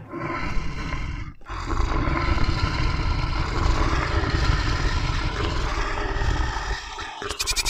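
Animal roar sound effect: a long, rough roar with a deep rumble, broken off once about a second and a half in. A bleating call cuts in just before the end.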